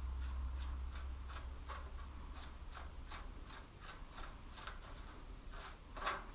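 Faint, regular light ticking, about three ticks a second, over a low hum that fades away early on.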